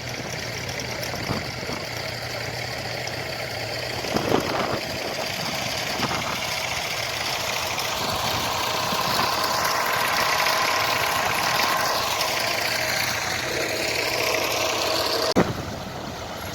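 Tractor engines running at idle, with engine pitch rising and falling in the middle as one is revved or drives past. A sharp knock comes near the end.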